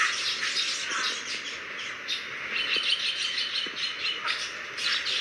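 Small birds chirping over and over in quick, high notes, with a fast run of repeated notes about halfway through.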